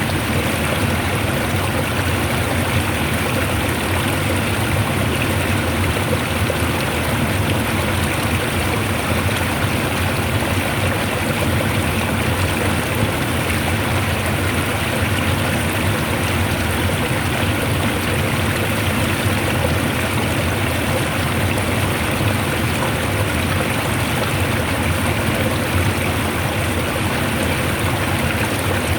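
Fast-flowing water rushing steadily, a constant full hiss of white-noise-like water sound with no change.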